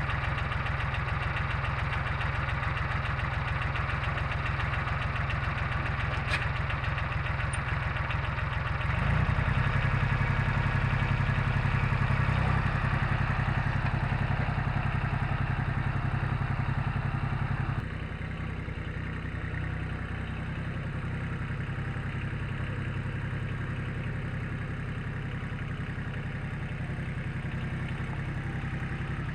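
Satoh Mitsubishi compact tractor engine running steadily. It gets louder and heavier about nine seconds in, then drops back quieter about eighteen seconds in and runs on evenly.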